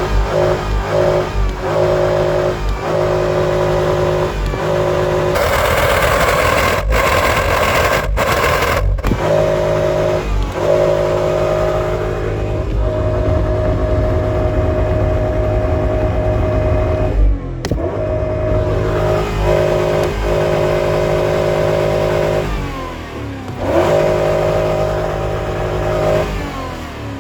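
V8 car engine revved hard by pumping the gas pedal, held at steady high revs in long stretches, with the revs sweeping down and back up twice near the end.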